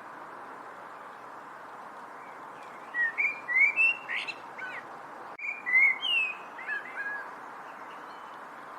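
A songbird singing two short phrases of quick, sliding chirps and whistles, a few seconds apart, over a steady background hiss.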